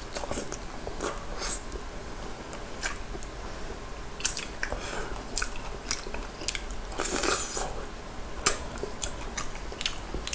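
Close mouth sounds of a person eating soy-garlic fried chicken: chewing and biting, with wet smacks and short crunchy clicks at irregular intervals.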